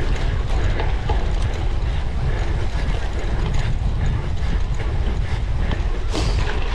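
Cyclocross bike ridden over rough ground: chain and drivetrain rattling with a dense run of small clicks over a steady low rumble, with a louder clattering patch near the end.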